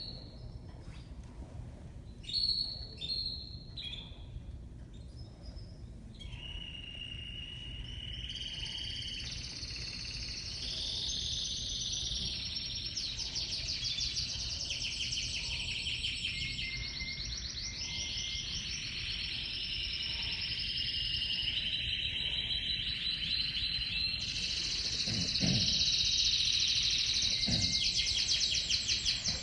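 Timbrado español song canary singing: a few short calls, then a continuous song of held high notes and fast rolling trills that grows louder toward the end.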